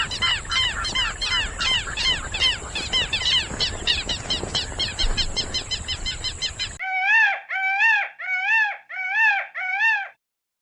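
Rapid, overlapping bird calls, several a second, over a noisy background, cutting off abruptly about seven seconds in. Five separate, clearer calls follow, each rising and falling, before the sound stops near the end.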